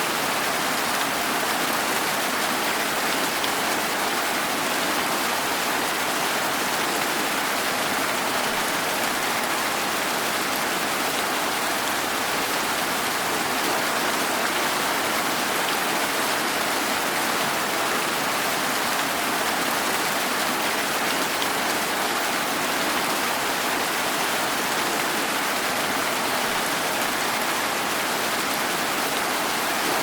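Steady rain falling, an even hiss with no single drops standing out and no change in strength.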